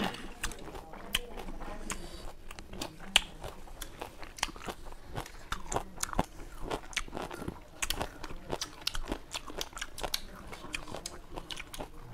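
Close-miked biting and chewing of raw lemon slices: a dense, irregular run of wet crunches and sharp clicks, with one louder crack about three seconds in.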